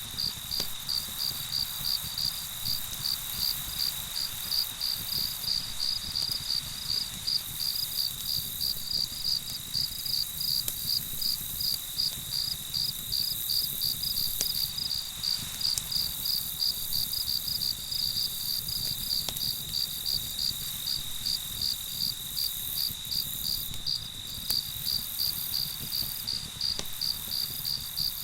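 Night crickets: a steady, continuous trill under rhythmic chirping at about two chirps a second. A few faint pops of campfire crackle come now and then.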